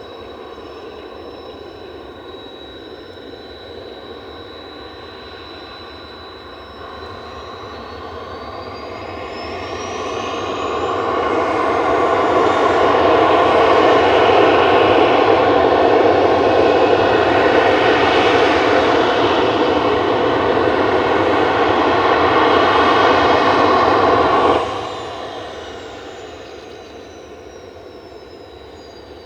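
Kawasaki T-4 jet's turbofan engines: a steady high whine, then spooling up about seven seconds in, rising in pitch into a loud roar that holds for about twelve seconds. The roar then drops off suddenly and the whine winds back down.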